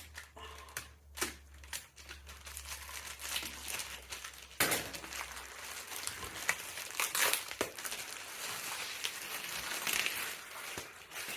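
Plastic packaging being pulled off and crumpled by hand, crinkling and crackling irregularly with small clicks.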